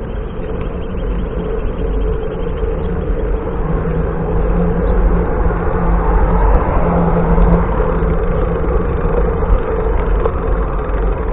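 Steady wind rush and road noise from riding a bicycle, mostly a low rumble, building a little louder towards the middle.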